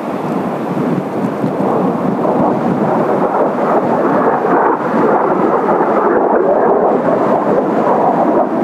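Kawasaki T-4 jet trainers' turbofan engines in flight: a steady, rumbling roar that slowly grows louder.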